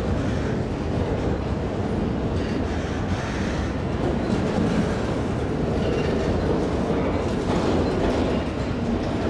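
Empty autorack freight cars rolling past on street-running track: a steady rumble of steel wheels on rail that carries on without a break.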